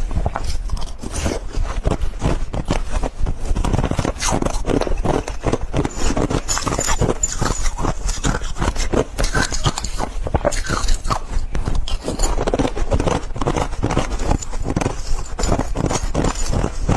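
Ice being chewed: a dense, irregular run of sharp crunches, several a second, without pause.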